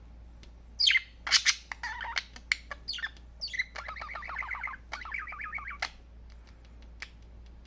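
Budgerigar calling: a few sharp, loud squawks about a second in, then a fast, rattling chatter for a couple of seconds, scattered with little clicks. The male budgie is chattering at his own reflection in a mirror.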